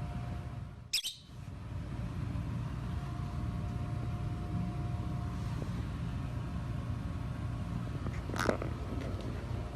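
Steady low room rumble with a faint steady hum. A newborn, featherless chick gives a brief high cheep near the end, and a short high sound comes about a second in.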